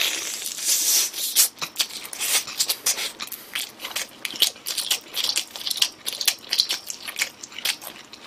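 Close-miked biting and chewing of crispy cheese-seasoned fried chicken: a fast, irregular run of crunches and wet mouth sounds as the crust breaks up.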